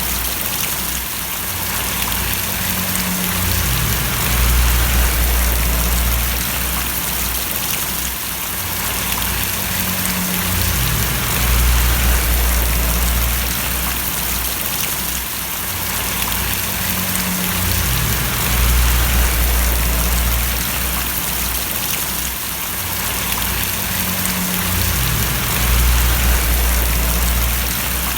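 Steady rain splashing, an even hiss, with a low rumble underneath that swells and fades about every seven seconds.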